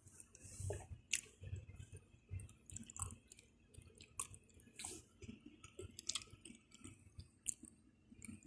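Close-up chewing of pizza: soft rhythmic chews about twice a second with wet mouth smacks and clicks.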